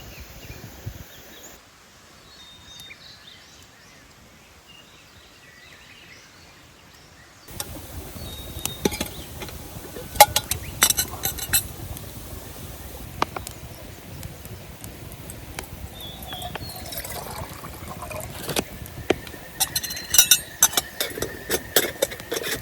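Camp cookware clinking and knocking as it is handled, with water being poured, in the run-up to brewing morning coffee; the sharp clinks come in clusters from about a third of the way in.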